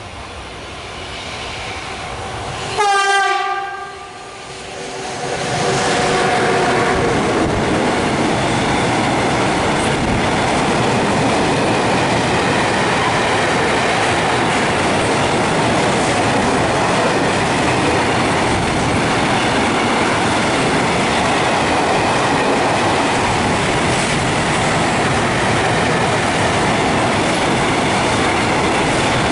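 An electric freight locomotive gives a short, loud horn blast about three seconds in as it approaches. From about five seconds in, a long intermodal freight train of container and trailer wagons rolls past with a steady, loud rumble of wheels on rail.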